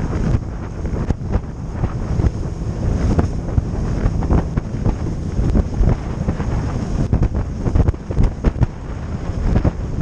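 Wind buffeting the microphone of a moving motorboat, over the steady run of the boat and water underneath.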